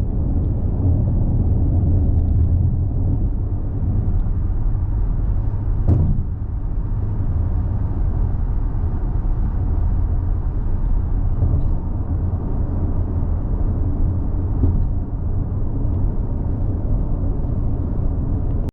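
Steady low road rumble of a car driving, with a single knock about six seconds in.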